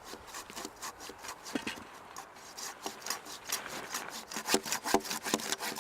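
Hand saw cutting through a small tree trunk, stroke by stroke. The strokes are uneven at first and get quicker and louder in the second half.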